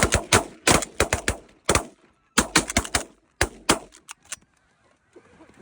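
A volley of shotgun fire from several guns: about fifteen sharp shots in quick, uneven succession over four seconds, then the firing stops.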